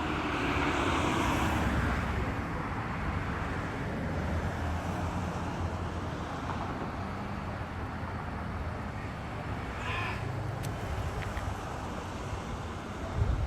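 Street traffic noise: a steady low engine hum, with a louder vehicle swell in the first couple of seconds.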